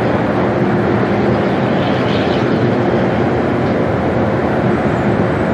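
Steady loud jet noise from a Boeing 737-800 passing low on its landing approach, its CFM56 turbofans running with a few faint steady tones under the noise. Wind buffets the microphone.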